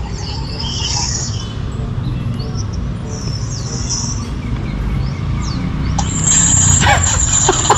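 Birds chirping in a few short phrases over a steady low rumble; a high hiss comes in near the end.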